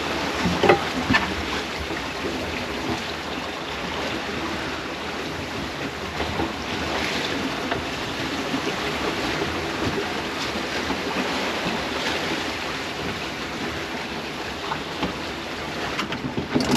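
Water rushing and splashing along the hull of a 1978 Allied Seawind II sailboat under sail, with wind, steady throughout, and a few light knocks in the first couple of seconds.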